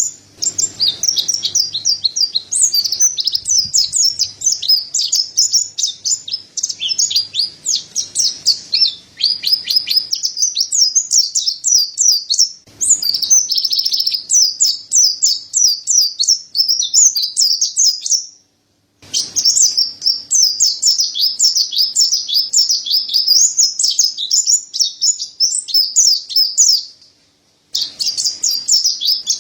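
Mountain white-eye (pleci dada putih) singing a fast, unbroken twittering song of high chirps. The sound cuts out briefly twice, about two-thirds of the way through and near the end.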